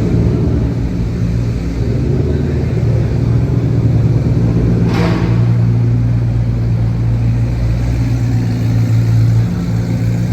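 A car engine idling close by, a loud, steady low rumble that holds an even pitch. A brief sharp sound cuts through about halfway.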